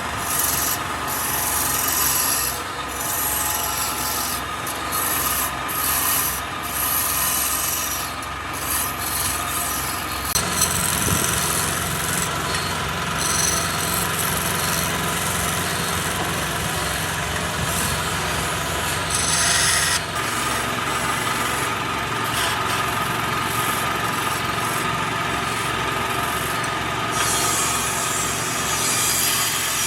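Wood lathe running while a turning tool scrapes against the spinning wood, giving a continuous rasping sound with a steady motor hum beneath it. The sound changes abruptly a few times.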